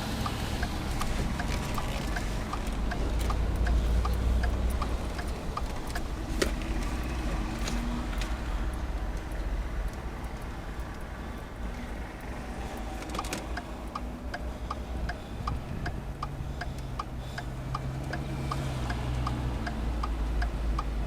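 A car's turn-signal indicator ticking steadily inside the cabin, about one and a half ticks a second, over low engine and road rumble.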